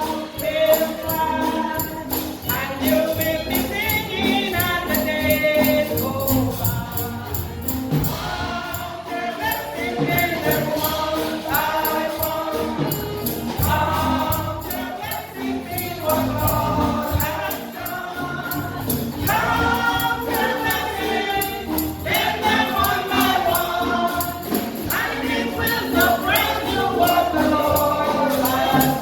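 Group of voices singing a gospel song, with a tambourine shaken in a steady beat.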